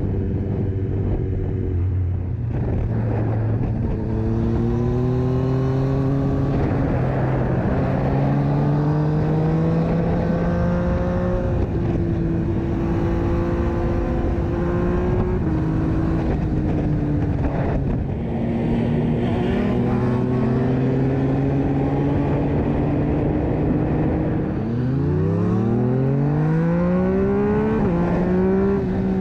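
Yamaha MT-09 inline-three engine through an Akrapovic exhaust, accelerating through the gears: the pitch climbs and drops back at each upshift several times, with one hard, fast rise near the end.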